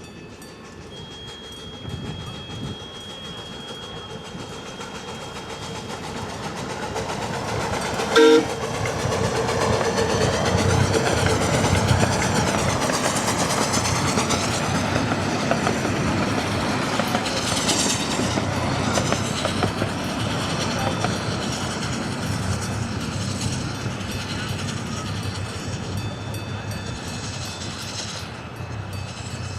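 16-inch gauge grand scale steam train passing, its wheels clicking over the rail joints, growing louder to a peak about halfway and then fading. A short sharp whistle toot sounds about 8 seconds in.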